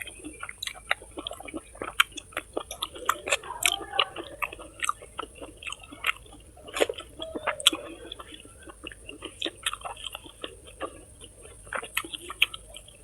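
A person chewing food close to the microphone, with many irregular wet mouth clicks and smacks.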